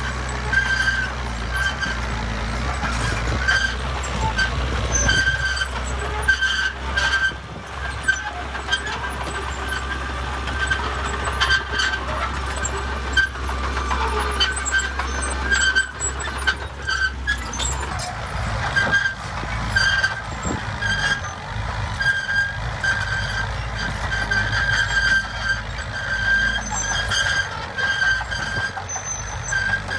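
Bulldozer at work: its diesel engine gives a low rumble, and a high squeal repeats about once a second. The heavy rumble drops away a little over halfway through.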